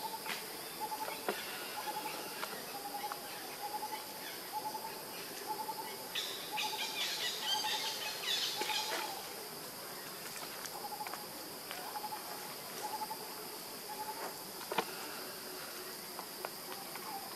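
Forest ambience: a bird gives a long series of short hooting notes, about two a second, with a short pause midway, over a steady high insect drone. A burst of scratchy, higher-pitched sound comes about six to nine seconds in.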